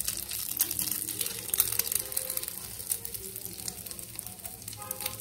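Egg batter sizzling in hot oil in the wells of a paniyaram pan, with a steady hiss and many quick crackles of the oil.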